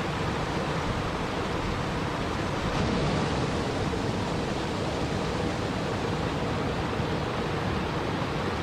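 Continuous water noise, an even, steady hiss with no breaks, swelling slightly about three seconds in.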